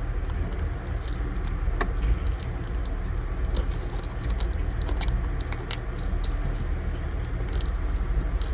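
A farm vehicle's engine running with a steady low rumble, with frequent light rattles and clicks throughout.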